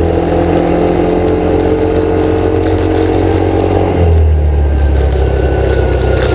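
An engine running steadily, its note shifting lower about four seconds in.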